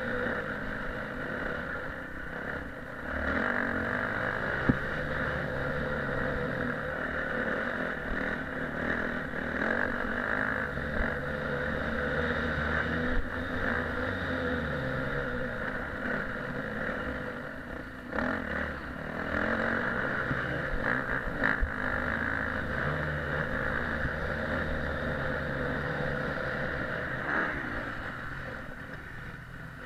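Motocross motorcycle engine running steadily with changing revs throughout, broken by a few sharp knocks.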